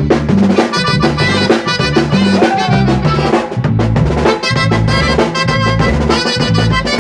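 Norteño conjunto music, instrumental: accordion melody over a steady bass line and drums.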